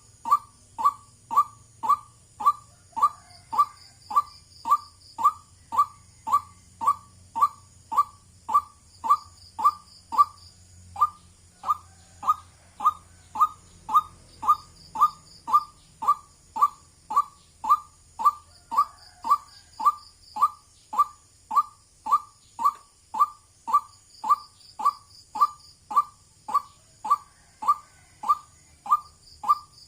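White-breasted waterhen calling: a short, sharp 'wak' note repeated over and over at an even pace of about two a second. Behind it a faint high chirping comes in short runs every few seconds over a steady high tone.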